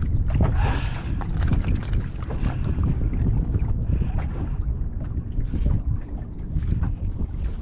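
Wind buffeting the microphone on a small open boat, a steady rumble, with scattered small knocks and clicks throughout.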